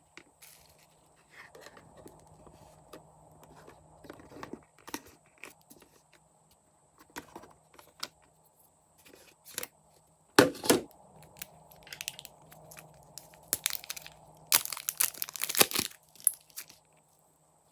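Slime being kneaded and mixed by hand: irregular sticky crackles and pops, with a loud cluster about ten seconds in and a longer, louder run of crackling near the end.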